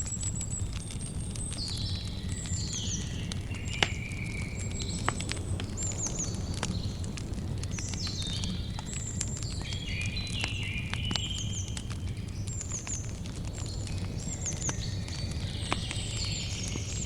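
Campfire crackling with scattered sharp pops, the loudest about four seconds in, over a steady low rumble. Small birds chirp and sing throughout in repeated quick phrases.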